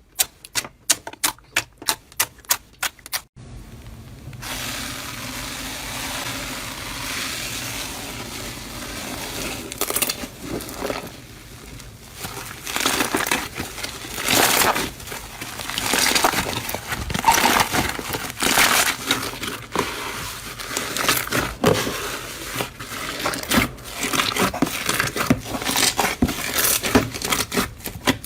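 A fast run of sharp clicks for about three seconds, then, after an abrupt cut, continuous crackling and crunching of a material being squeezed and crushed by hand, with louder crunches throughout.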